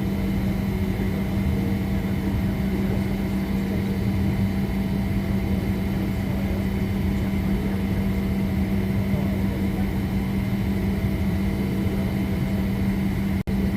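Steady drone of an airliner with a constant low hum. It cuts out for an instant near the end.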